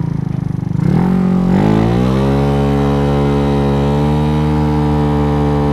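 Big-bore 88cc scooter engine on a Dongfang DF50SST pulling hard under acceleration: its pitch rises over about a second, from roughly a second and a half in, then holds steady at cruising revs.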